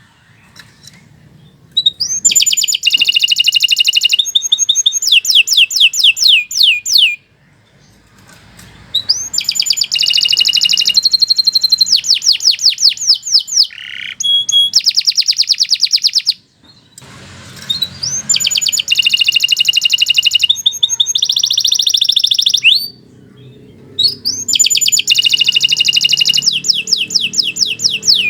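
Domestic canary singing long, loud song phrases of rapid repeated trills and rolls, in four bouts broken by short pauses.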